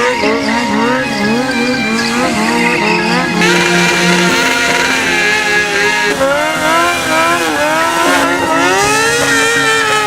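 Motorcycle engine revving up and down over and over, quickly in the first few seconds and in slower swoops later, with tyre squeal from stunt riding.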